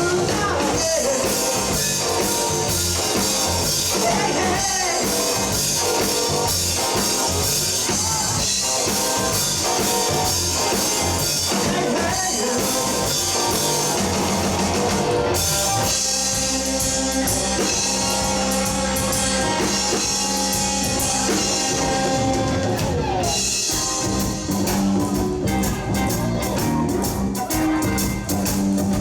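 Live rock band of two electric guitars, bass guitar and drum kit playing loud and full with heavy cymbals. About halfway through it drops to a sparser passage of held guitar and bass notes, then builds again.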